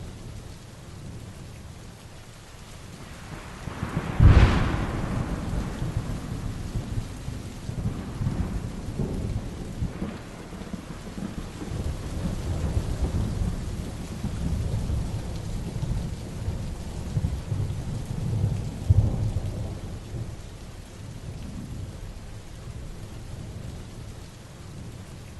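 Heavy rain falling steadily through a thunderstorm. About four seconds in a loud, sharp thunderclap breaks, followed by low rolling rumbles, with another loud rumble peak near the end.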